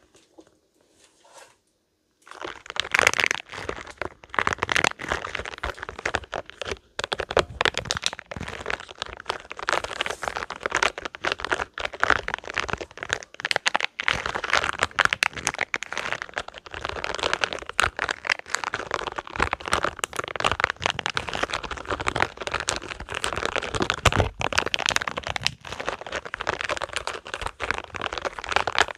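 Spiky rubber balls being squeezed and rubbed by hand, making a dense, continuous crackling and crinkling. It starts about two seconds in, after a near-silent pause.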